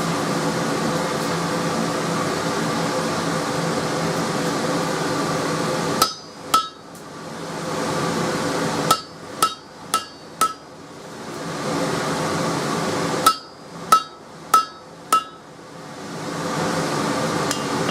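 Blacksmith's hammer striking spring steel on an anvil: two blows, then a run of four, then another four, each a sharp hit with a bright ring. A steady rushing hum fills the gaps between the groups of blows.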